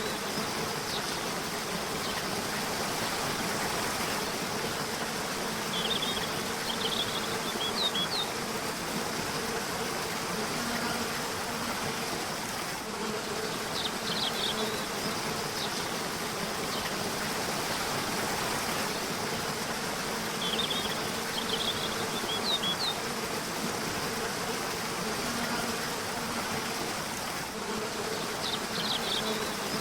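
Steady rushing of a river or waterfall with a low hum under it, and short phrases of high bird chirps recurring about every seven seconds.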